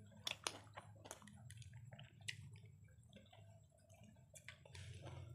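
Close-miked eating sounds: wet chewing and scattered soft mouth clicks and smacks from biryani being eaten by hand, over a steady low hum.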